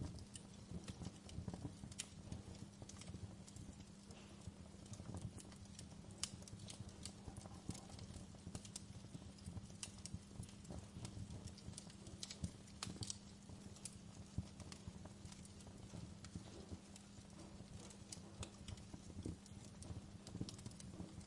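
Wood fire crackling in a fireplace: irregular small pops and snaps over a low rumble, with a steady low hum underneath.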